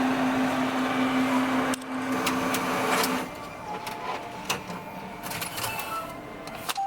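A machine's mechanism whirring over a steady hum, which stops about three seconds in; scattered light clicks and quieter background noise follow.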